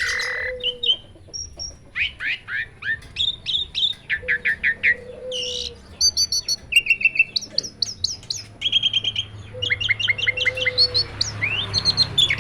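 Caged songbirds singing and chirping: a busy mix of many different short chirps, sweeping whistles and quick trills, one after another with no pause.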